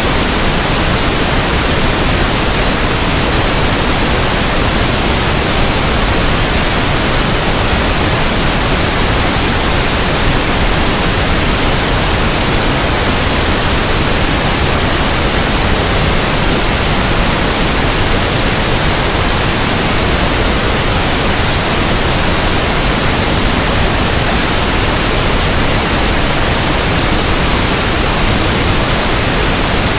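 Pink noise: an even, unchanging hiss.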